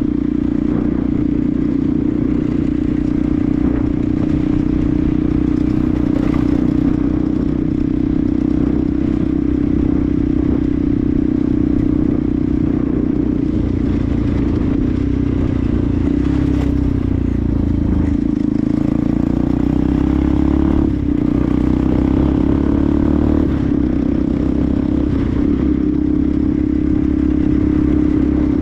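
Benelli TNT 125's single-cylinder four-stroke engine running under way at steady revs. Its pitch sags and climbs again in the second half, with a brief dip about twenty seconds in.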